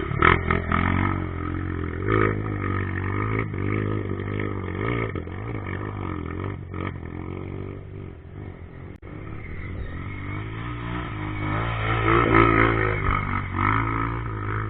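Motorcycle engine running, its revs rising and falling, louder for a moment about twelve seconds in.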